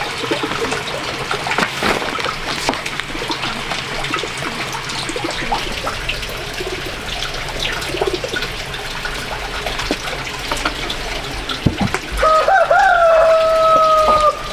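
Water splashing and trickling with many small knocks and clicks, like hands working in water. Near the end a rooster crows once, a call of about two seconds that wavers at first and then holds.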